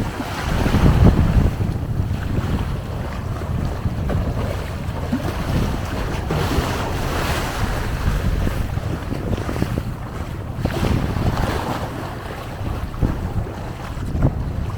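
Sea wind buffeting the microphone, with a low uneven rumble, over waves washing onto the shore in slow swells.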